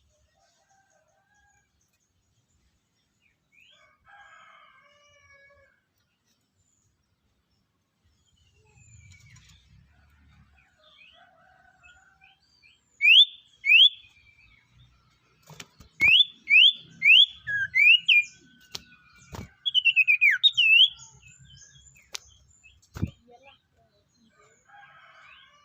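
Sirtu songbird calling: after a quiet first half, a run of loud, short whistled notes that each sweep quickly upward, coming in quick pairs and clusters, with a few sharp clicks among them.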